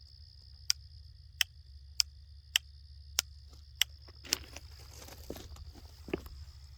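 Insects buzzing in a steady high drone, with seven sharp ticks about every 0.6 s, then crunching footsteps from about four seconds in.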